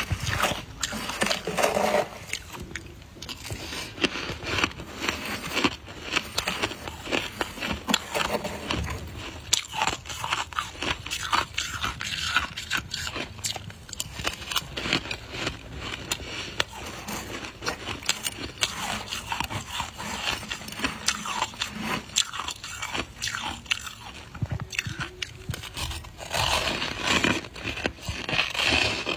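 Close-miked biting and chewing of soft white ice: a steady run of crisp crunches and crackles, heaviest near the start and again near the end.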